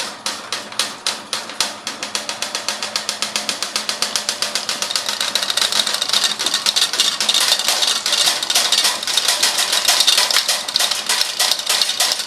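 Rapid mechanical clicking, about three or four clicks a second at first, speeding up steadily until it becomes a fast, continuous rattle about five seconds in.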